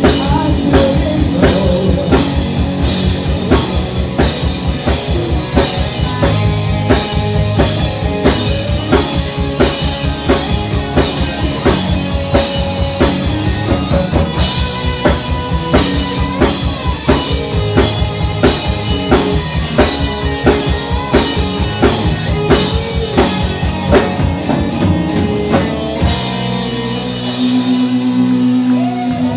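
Live rock band playing, a drum kit keeping a steady, even beat under guitar. Near the end the drums stop and a held chord rings out.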